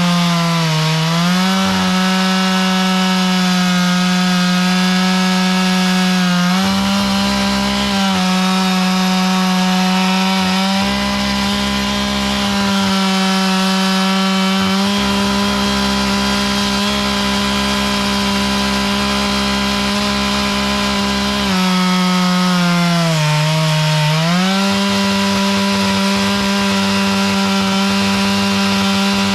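Chainsaw running at high speed, ripping through a log while milling it, the engine note steady apart from two brief sags in pitch where it bogs under load, about a second in and near the end.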